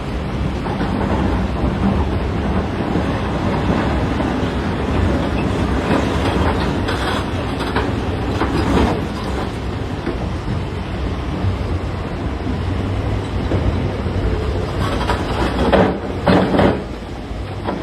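Heavy diesel earthmoving machinery running steadily under load, with rocks clattering a few times and loudest about three-quarters of the way through.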